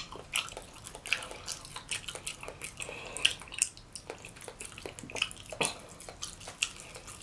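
Close-miked eating sounds: wet chewing and lip smacking, an irregular string of small wet clicks several times a second.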